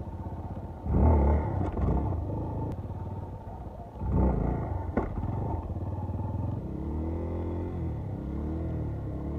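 Yamaha Serow 250's single-cylinder four-stroke engine revving in two surges, about a second in and about four seconds in, as the dirt bike is ridden at a low obstacle, with a sharp knock about five seconds in. After that it revs up and down more gently.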